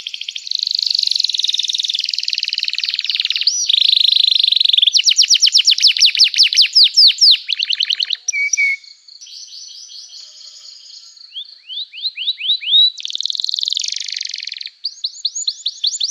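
A canary in full song, chirping continuously with varied phrases. Rapid trills of repeated up-sweeping notes alternate with buzzy rolled stretches, with a softer passage in the middle.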